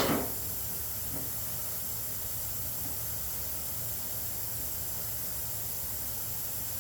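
Steady hiss with a faint low hum underneath: unchanging background noise, with no distinct events.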